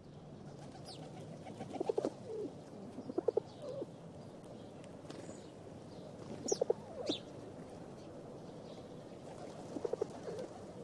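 Pigeons cooing in short bursts, about four times, with a few brief high chirps from small birds over a steady low background hum.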